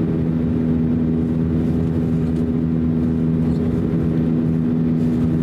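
Steady drone in the cabin of an Airbus A321 from its two IAE V2530-A5 turbofan engines, heard as two strong, even low hums over a broad rumble.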